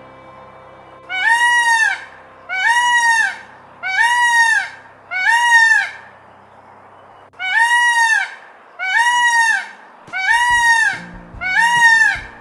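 An animal calling loudly over and over, about once a second, eight times; each call rises and falls in pitch. Faint background music runs underneath.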